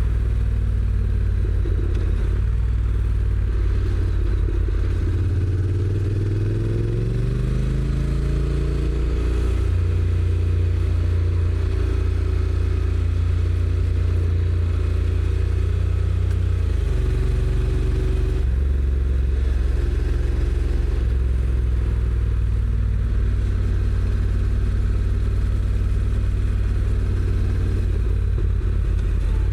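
Honda NC750X's parallel-twin engine on its stock exhaust, heard while riding: the engine note rises as the bike accelerates about five to nine seconds in, then holds fairly steady, changing pitch a few times later on.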